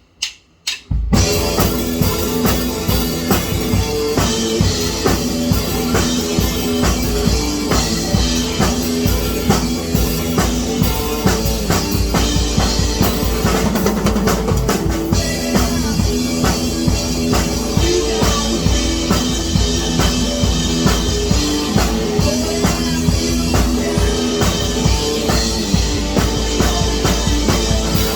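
Rock music with a drum kit, bass drum and guitars playing loud and steady, kicking in about a second in after a few sharp clicks.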